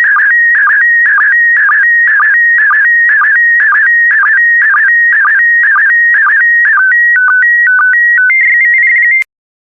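Slow-scan television (SSTV) PD120 image signal: the final scan lines of a picture, sent as warbling audio tones between about 1.5 and 2.3 kHz with a sync pulse about twice a second. About seven seconds in it changes to a short run of stepped beeps, then a steady high tone that cuts off suddenly with a click.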